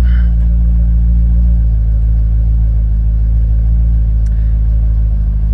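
2008 Corvette LS3 6.2-litre V8 engine idling steadily after starting right up. The seller says it runs with no knocks or ticks.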